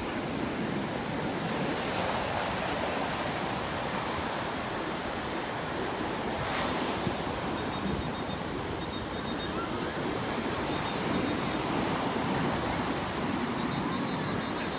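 Sea waves washing onto the shore, a steady surf noise, with wind buffeting the microphone.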